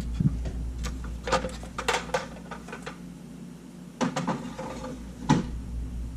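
Light clicks and taps of small camera parts and tools being handled on a workbench, in a cluster between about one and two seconds in and again around four seconds in, over a low steady hum.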